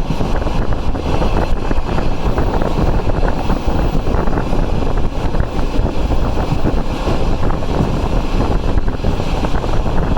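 Passenger train running at speed: a steady loud rumble of wheels on rail, with wind buffeting the microphone.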